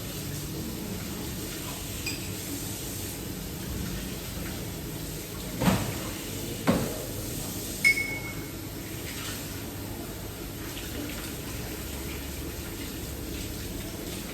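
Three sharp knocks about a second apart over a steady low background, the last with a brief ringing clink.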